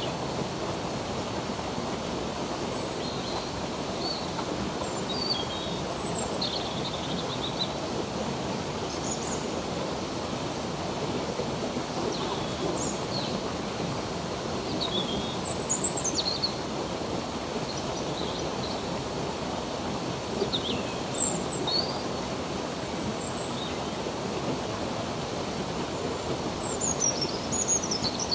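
Stream water flowing steadily, with small birds chirping now and then above it; a quick run of falling chirps near the end.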